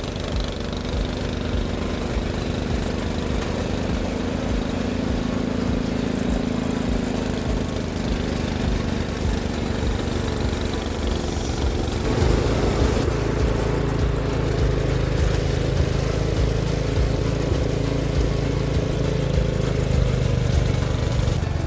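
Engine of a snow-clearing machine running steadily. About twelve seconds in, its note changes and it gets a little louder, as if it is taking on load.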